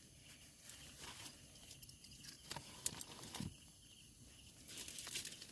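Faint scattered clicks and a brief rustle near the end from things being handled, over a steady high chirring of night insects.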